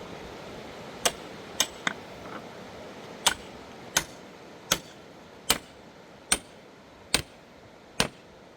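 Repeated sharp blows of a hand tool striking a hard material: three quick strikes about a second in, then seven more at a steady pace of roughly one every three-quarters of a second, over a steady rushing background.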